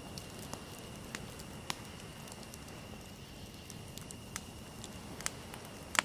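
Wood fire in a fireplace crackling, with scattered sharp pops a second or so apart, the loudest near the end.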